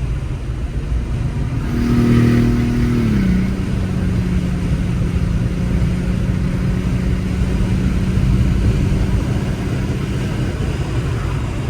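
Toyota Mark II's big-turbo 2JZ inline-six running on the road; its tone drops about three seconds in, then holds steady over a rumble of road noise.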